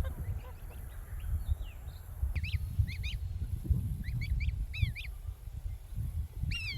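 Gosling peeping: short, high chirps in twos and threes, over a low rumble.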